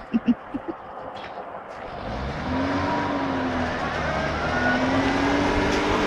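Car engine accelerating hard, its note climbing, easing off briefly about three and a half seconds in and climbing again, louder toward the end. A few short sharp blips come in the first second.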